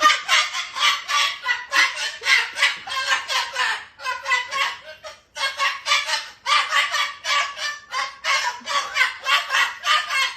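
Parrot squawking in long runs of rapid repeated calls, about five a second, with two short breaks.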